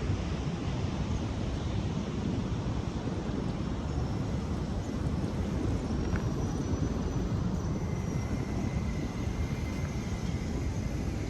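Steady low rumble of wind buffeting the microphone mixed with ocean surf, the level wavering without a break. Faint thin high tones join in the second half.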